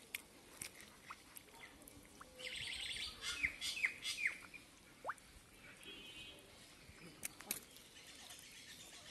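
Birds chirping, with a cluster of quick downward-sliding chirps about three seconds in and a short trill a little later, over faint splashing and squelching of hands working in shallow muddy water.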